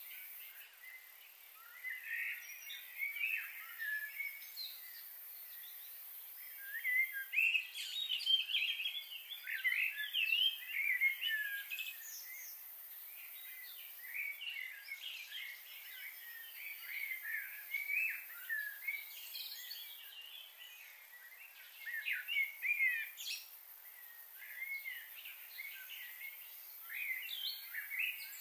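Small birds chirping: a busy chorus of short, quick calls coming in bursts, busiest about a quarter of the way in, over a faint steady hiss.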